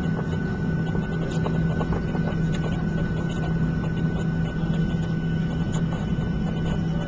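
Steady cabin noise inside a Boeing 737-700 taxiing on the ground: a strong low hum and a thin steady high tone over an even rush of engine and air noise, with faint scattered small clicks and knocks.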